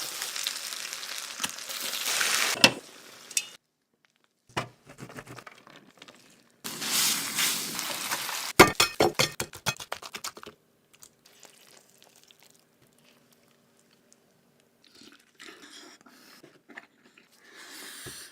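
Crunching of crispy breaded chicken katsu, in two loud spells followed by a quick run of sharp crunches, then it goes quiet.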